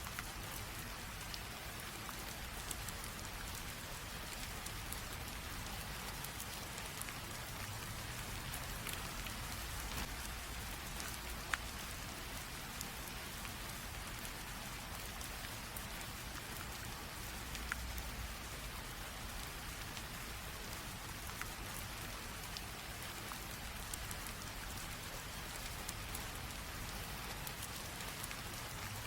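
Light drizzle falling steadily, an even hiss of rain with scattered sharper ticks of individual drops striking a surface.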